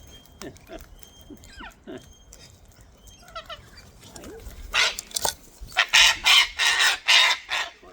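Cockatoo screeching: soft chirps and small clicks, then about halfway through a run of loud, harsh squawks in quick succession.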